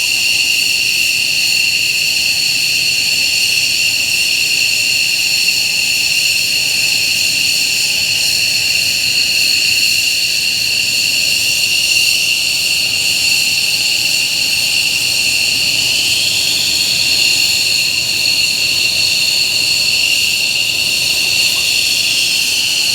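Twin F100-IHI-220E turbofan engines of F-15J fighters running steadily, with a loud high-pitched turbine whine over a low rumble. About two-thirds of the way through, a second whine briefly rises and falls a little in pitch.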